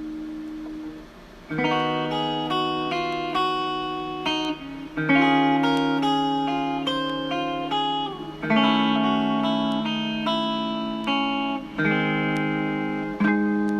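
Guitar music: picked notes ringing over sustained chords, with a fresh chord struck every few seconds.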